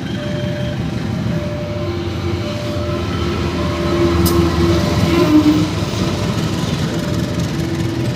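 Serayu passenger train running by with a steady rumble of wheels on the rails, growing a little louder about halfway through, with a single sharp click.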